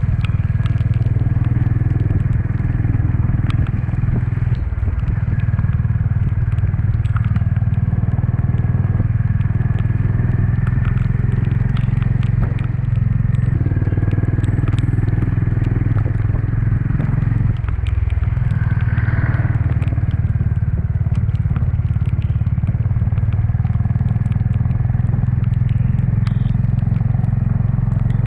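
Honda CB350's single-cylinder engine running steadily under way, a continuous low exhaust rumble that dips briefly twice, about five and about eighteen seconds in.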